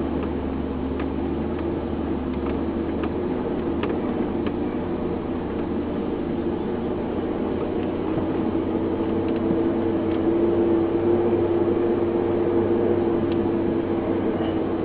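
A 4x4's engine running at low speed as it drives along a rough track. The hum grows a little louder and stronger in the second half, with a few faint knocks.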